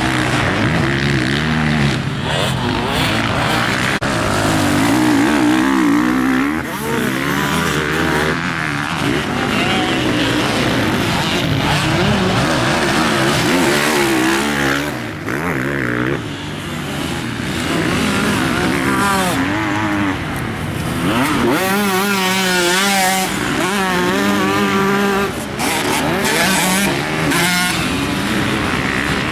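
Motocross bike engine being ridden hard, revving up and dropping off again and again as the rider works the throttle and gears. A steady rushing hiss runs over it.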